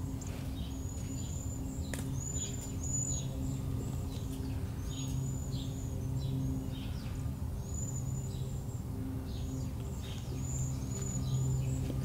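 Songbirds chirping in the woods, with many short, high chirps repeating throughout. Under them runs a steady low hum.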